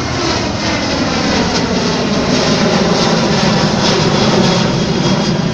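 Boeing 737-700 airliner taking off overhead, its twin CFM56 jet engines at takeoff thrust: a loud, steady roar that grows louder to a peak about four seconds in.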